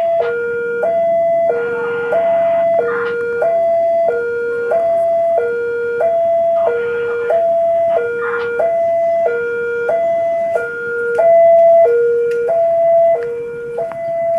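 Railway level-crossing alarm sounding its electronic two-tone warning, alternating evenly between a low and a higher note about every two-thirds of a second: the signal that a train is approaching the crossing.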